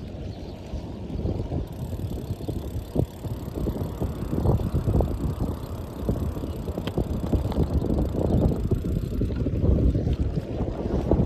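Wind buffeting the microphone while riding, a gusty low rumble with a few brief knocks.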